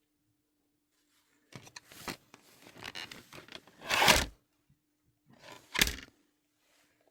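Album packaging being handled, scraping and rustling, with two louder scrapes, one about four seconds in and one about six seconds in.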